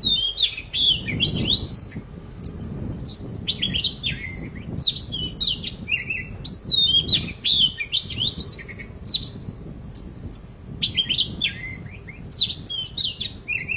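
Oriental magpie-robin (kacer poci) singing vigorously: a continuous run of fast, varied whistled phrases with quick rising and falling notes, the kind of bird-keeper recording played to stimulate a silent bird into singing.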